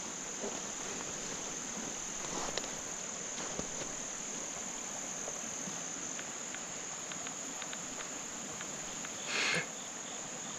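Steady high-pitched chorus of crickets, with faint scattered ticks and a short, louder rush of noise near the end.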